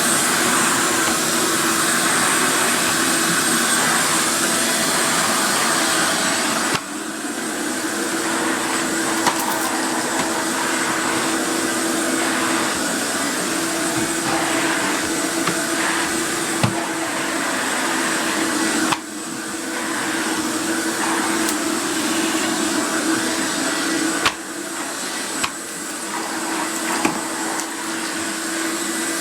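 A Numatic Premier Mini 175 vacuum cleaner, built around a Henry-type motor, running steadily with a hum and a high whine. The owner says it runs a bit ropey and puts this down to the motor bearings needing oil. The level drops suddenly a few times, and there are a few light knocks.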